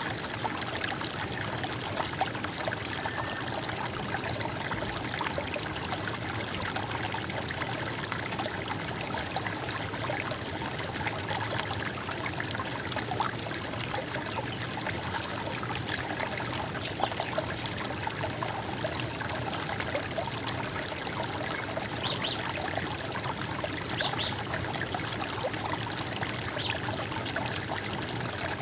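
Stream water running and trickling steadily with an even gurgle.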